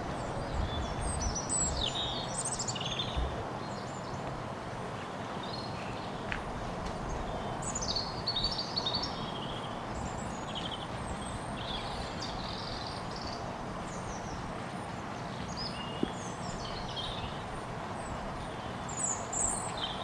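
Several songbirds singing in woodland, short high chirps and warbled phrases overlapping throughout, over a steady background noise.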